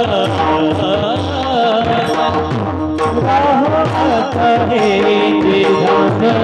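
Marathi devotional bhajan singing in a Warkari kirtan. A singer draws out a long, winding melodic line with no clear words over steady sustained accompanying tones, while drum and cymbal strokes keep time.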